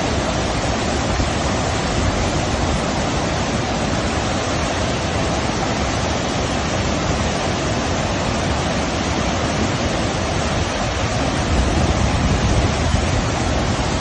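Steady, unbroken rushing of rainwater in a heavy downpour.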